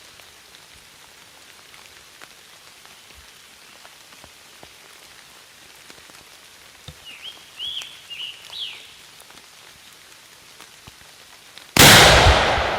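Steady rain pattering with scattered drips, and a few short high chirps midway. Near the end, a single sudden loud shotgun blast rings out and echoes away: a hunter firing at a turkey.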